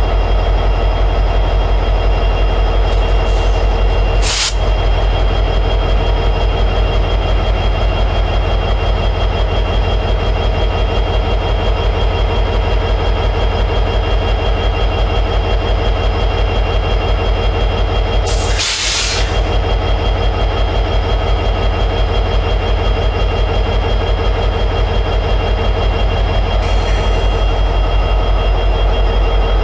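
EMD 710G3B two-stroke diesel prime mover of an SD60E locomotive running steadily in high idle, with a deep even pulse. Two short hisses break through, one about four seconds in and a longer one past the halfway point.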